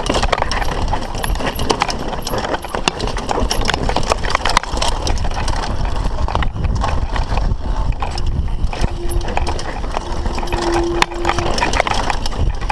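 Mountain bike descending a rough downhill trail: constant clattering and rattling of the frame and chain over rocks and roots, with tyre rumble and wind on the mic.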